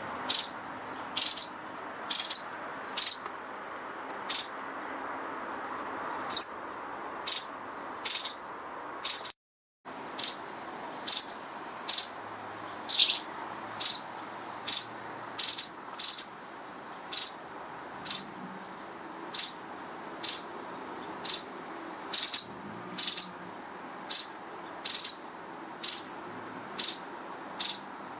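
White wagtail calling: short, sharp, high call notes repeated about once a second, with a brief break about a third of the way through.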